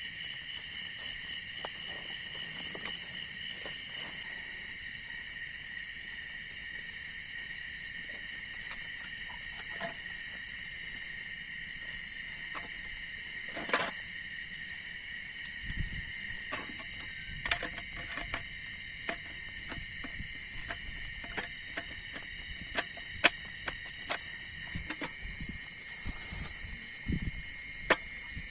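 Steady chorus of forest insects, several high-pitched tones holding on without a break. Sharp clicks and knocks come in scattered from about halfway through, with a few low thuds.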